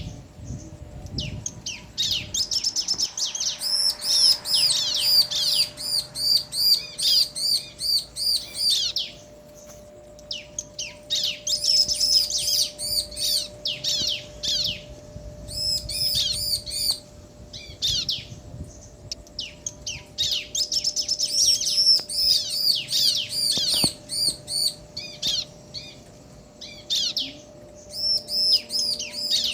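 Bar-winged prinias, male and female, calling back and forth in bursts of rapid, high, chattering chirps, each burst lasting a few seconds with short pauses between them.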